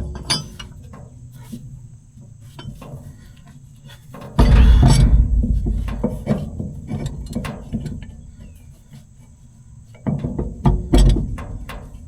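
Hand tools and metal parts clicking and clinking during repair work on a haybine drive shaft, with two heavy low rumbles, one about four seconds in and one near the end.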